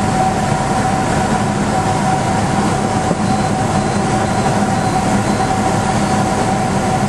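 Steady drone of a Cessna 172's piston engine and propeller heard inside the cabin, with a constant hum and no change in power.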